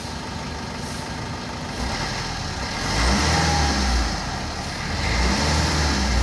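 Maruti Suzuki Brezza engine running, its low rumble building and swelling louder twice, about three and five seconds in.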